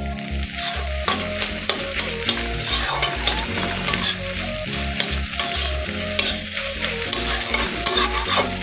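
Beaten eggs sizzling in hot oil in a kadai, frying into scrambled egg, while they are stirred and scraped around the pan with many short strokes.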